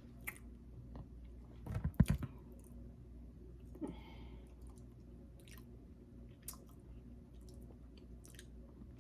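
Faint close-miked chewing and mouth clicks, with a louder cluster of clicks about two seconds in.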